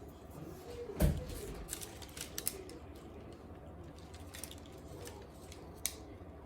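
A single dull thump about a second in, then a few scattered light clicks and taps, as of objects being handled and set down, over a faint steady background hum.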